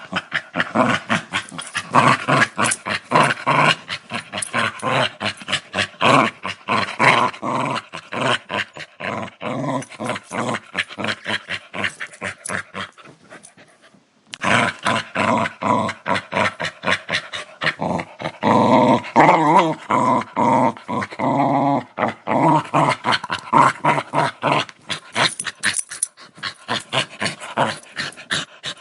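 Dog growling in rapid, rattling pulses. It breaks off briefly about halfway, then resumes with a longer, more tonal growl.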